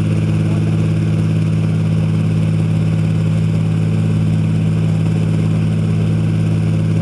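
Rolls-Royce Merlin V12 aero engine running on a test stand at a steady speed, with a deep, even note and no change in pitch.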